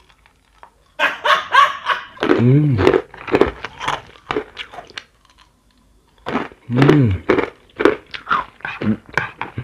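Close-up crunchy chewing of pilus, small fried flour-coated peanut snacks, in two runs of crackling bites with a pause between. Each run carries a short hummed vocal sound.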